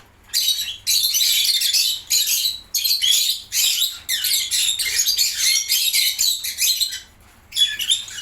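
A lovebird chick giving shrill, raspy high-pitched calls in rapid, almost continuous runs, broken by a short pause about seven seconds in.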